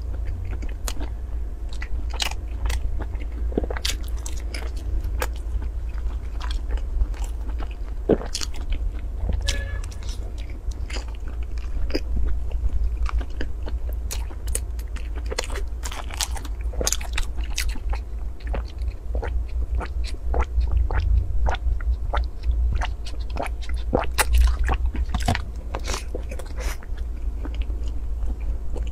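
Close-miked eating of soft baked buns with a crumbly topping: biting and wet chewing with many small, sharp, irregular crackles and smacks, over a steady low hum.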